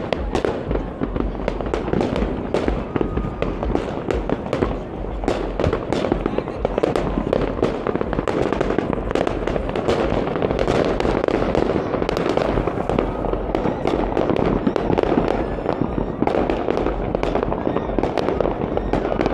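Many fireworks going off at once: sharp bangs several a second, overlapping over a continuous din of more distant blasts.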